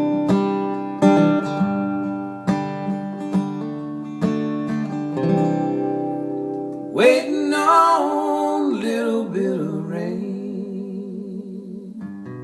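Acoustic guitar strumming chords in a country song's instrumental break. About seven seconds in, a wavering, gliding melody line comes in over the guitar for a few seconds, then fades.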